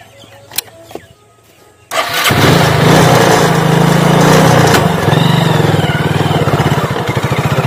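Motorcycle engine running with a steady low pulsing drone that comes in suddenly about two seconds in, after a quiet start with a few faint clicks. A rushing hiss sits over the engine for the first few seconds.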